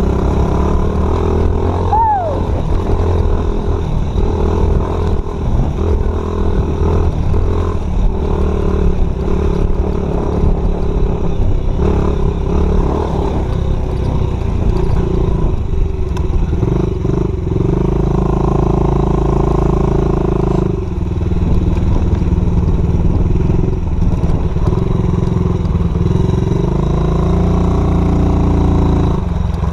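Dirt bike engine running steadily while it is ridden, its note rising and falling with the throttle and climbing noticeably a couple of times in the second half.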